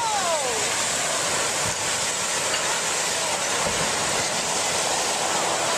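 Steady rushing and churning of surging tsunami water.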